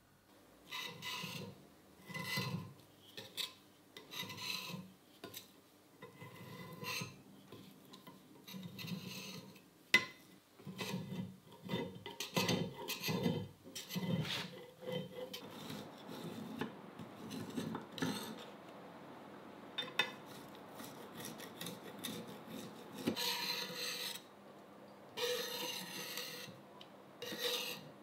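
Rasping, scraping strokes against a surface, repeated irregularly, with a more continuous rubbing stretch near the middle.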